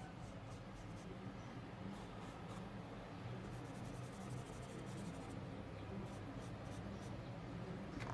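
Blending stump rubbing and smudging pencil graphite on drawing paper in faint, short strokes, with a steady low hum underneath.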